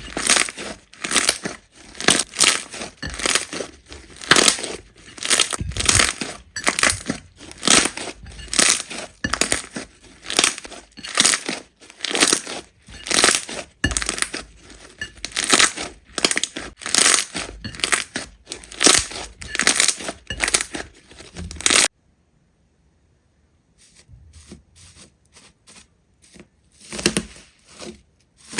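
Slime being squeezed and pressed by hand, giving crackly, crunchy pops about twice a second. The sound cuts off abruptly about 22 seconds in, and fainter crackling starts again near the end.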